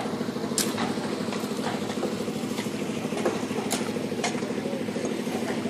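An engine idling steadily with a fast, even pulse, with a few sharp clicks over it.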